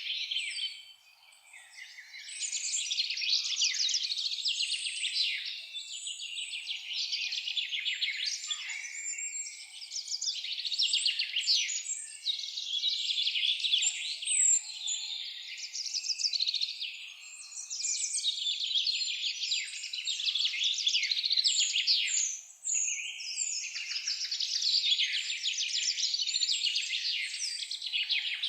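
Songbirds singing in rapid, high-pitched trills and chirps, almost without a break, with a short lull about a second in.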